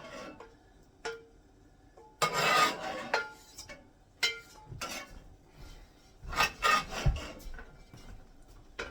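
Serving utensil scraping chicken pot pie filling out of a pan into a pie crust, in several short rasping strokes with a dull knock about seven seconds in.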